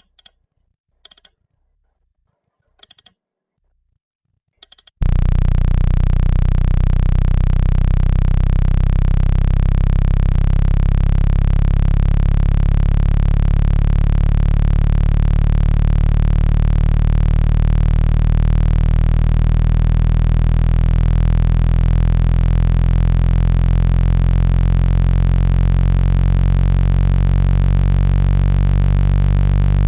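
Four short high ticks in the first five seconds, then a loud, steady low-pitched electronic tone, the 165 Hz speaker-cleaning tone meant to shake water and dust out of a phone speaker grille.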